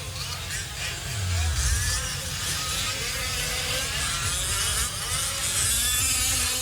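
Several 5th-scale RC race trucks' small gas engines buzzing around the track, their pitches overlapping and rising and falling as they rev through the corners. A brief low rumble comes in about a second in.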